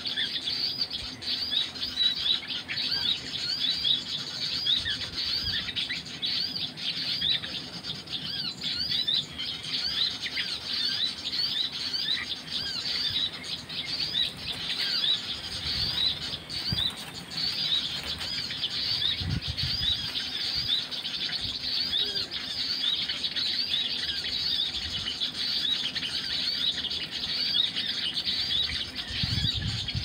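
Small birds chirping continuously: short, high chirps repeated rapidly, several a second.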